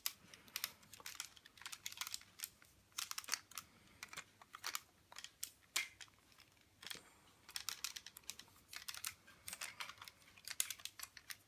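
Plastic parts of an Optimus Prime transforming toy figure clicking and clattering as they are handled and moved. The clicks are light and irregular, some in small clusters.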